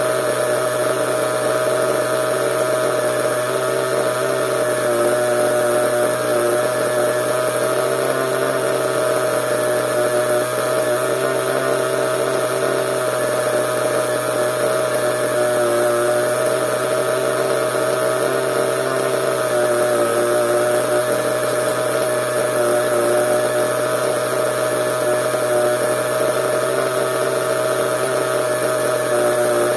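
Nitro RC monster truck's small glow-fuel engine running steadily with a high buzzing note, dipping slightly in pitch now and then.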